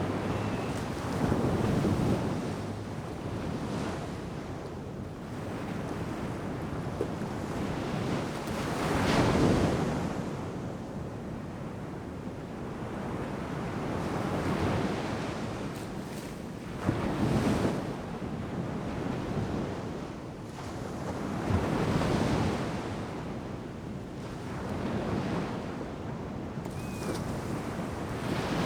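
Ocean surf breaking on a beach: a continuous wash of water, with larger waves breaking and swelling louder every several seconds.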